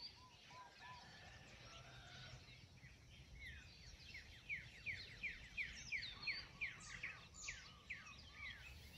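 Birds calling: a few short low notes in the first second, then a quick run of falling notes, about three a second, from about three to seven seconds in. Under them is a faint low rumble.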